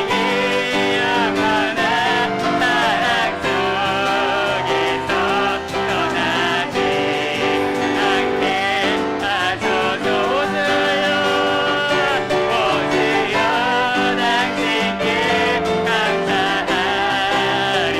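Worship song sung by a praise team's vocalists over piano accompaniment, continuous throughout.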